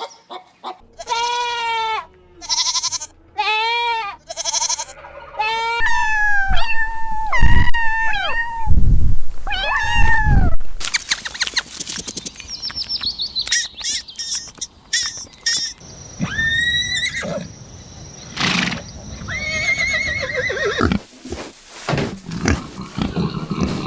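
A sequence of farm animal calls. It opens with a run of repeated high, arching bleats and changes to other, rougher animal sounds about halfway through.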